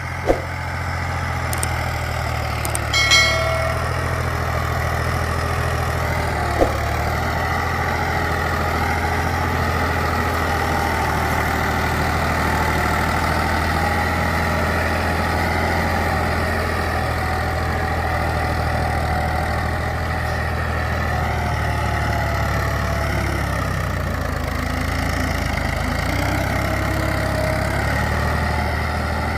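Ford 3610 tractor's three-cylinder engine running steadily. A brief sharp sound stands out about three seconds in, with a click or two near the start and at about six and a half seconds.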